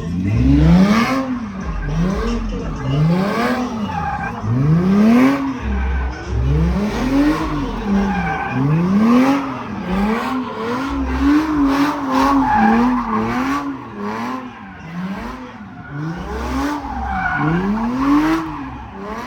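A car engine revved hard over and over, its pitch climbing and dropping back about a dozen times in quick succession.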